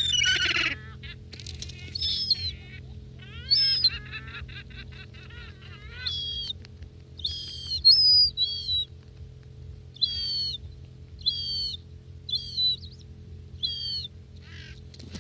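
Gulls calling: short, high calls repeated about once a second, with a quick run of rapid chattering calls from about three to six seconds in.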